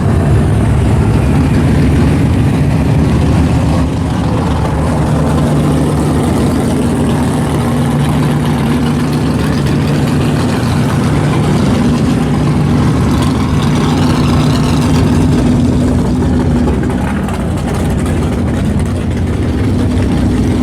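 AMC 304 V8 in a 1979 AMC Spirit AMX idling steadily, heard from inside the car.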